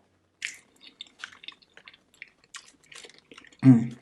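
Close-miked mouth sounds of a person eating: wet chewing and lip smacking in quick, irregular clicks. Near the end a brief low hum from the eater's voice is the loudest sound.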